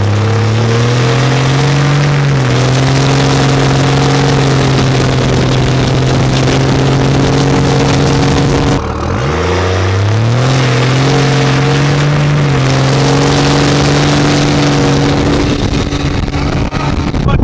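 Cummins inline-six turbodiesel pickup running under load, its engine note climbing and then holding steady. About nine seconds in the pitch drops sharply and climbs again, as at a gear change, then levels off once more.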